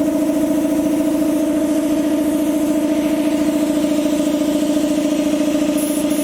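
A motor starts suddenly and runs at a steady speed with a strong, even hum.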